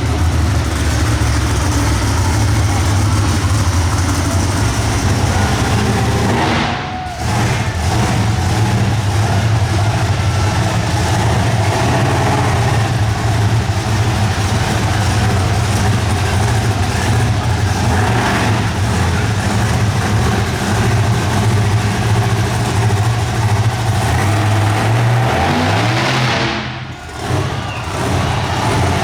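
Monster truck engine running hard under heavy throttle, with a brief lift off the throttle about seven seconds in. Near the end the revs climb, then drop sharply for a moment before the engine pulls hard again.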